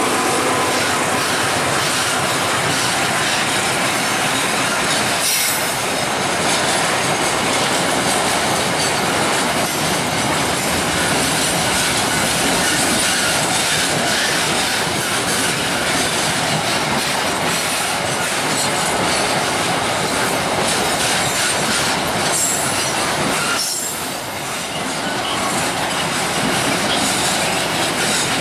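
Container freight wagons of a long freight train rolling past close by, their steel wheels running loudly on the rails. The sound is steady, with two brief dips about five seconds in and near the end.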